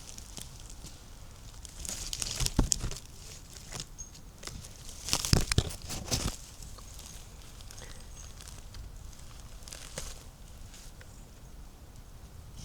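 Footsteps crunching on the forest floor, breaking dry twigs and leaves, in two bursts of crackling a few seconds apart.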